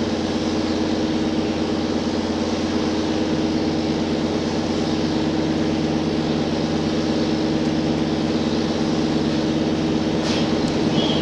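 Running sound heard inside a JR Hokkaido H100 diesel-electric railcar: a steady engine-generator hum over rail rolling noise. A brief click about ten seconds in and two short high squeaks near the end.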